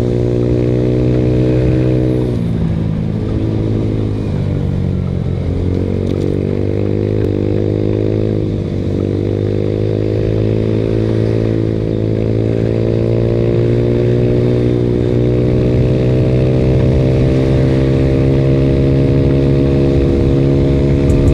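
Yamaha Mio Sporty scooter's single-cylinder four-stroke engine running through an aftermarket VND exhaust under way. The engine note drops off about two seconds in, dips again briefly about eight seconds in, then picks back up and holds steady, slowly rising.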